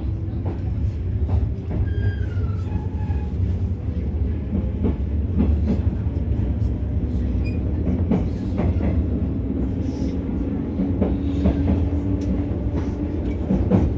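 Inside a JR West 115 series electric train, resistance-controlled: a steady low running rumble with the traction motors' faint tone rising slowly in pitch as the train picks up speed, and scattered sharp clicks of the wheels over rail joints.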